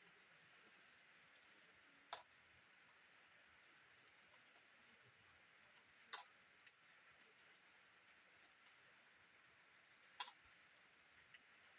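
Faint steady rain hiss with single drops landing now and then: three clearer drips about four seconds apart, with a few softer ticks between.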